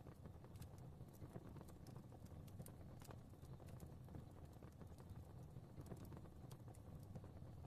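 Fireplace fire crackling faintly: a low steady rumble of flame with small, irregular pops and snaps.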